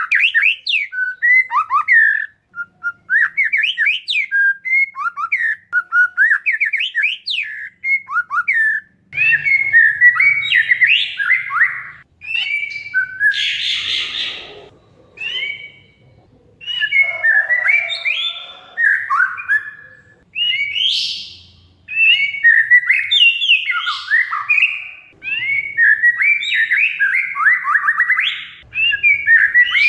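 An Oriental magpie-robin (kacer) singing a fast, varied song of whistled notes, trills and rising and falling glides in short bursts with brief pauses. About halfway through comes a harsh, scratchy chatter.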